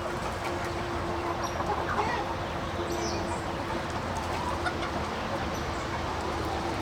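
A flock of chickens clucking over a steady low hum.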